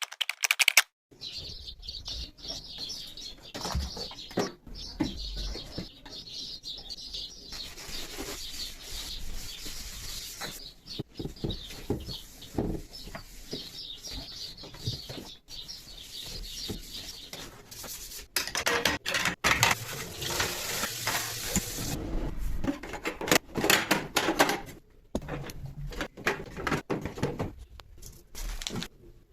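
Refrigerator cleaning: scrubbing and wiping with scattered clicks and clinks of containers and shelves being handled, and a louder stretch of hissing or rushing noise a little past halfway.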